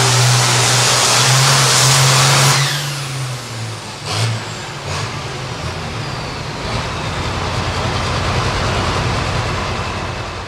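Farm pulling tractor's diesel engine at full throttle, cutting off about two and a half seconds in as the run ends. A high whine glides down after the cut, there are a couple of knocks, and the engine settles to a lower, pulsing rumble that fades near the end.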